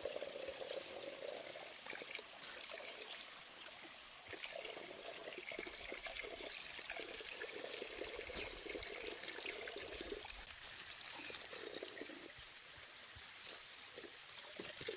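Water trickling and bubbling steadily, a soft, irregular gurgle.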